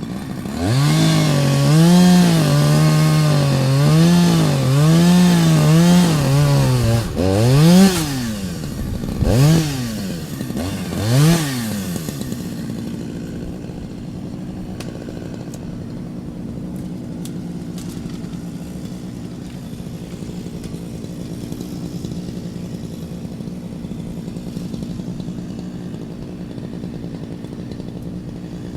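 Chainsaw engine just started, running unevenly with its pitch swinging up and down about once a second, then revved three times in short blips before settling to a steady, quieter idle for the rest of the time.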